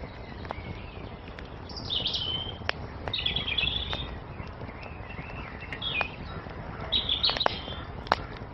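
Wood fire crackling, with scattered sharp pops over a steady low rumble, while songbirds chirp in short phrases, loudest about two, three and seven seconds in.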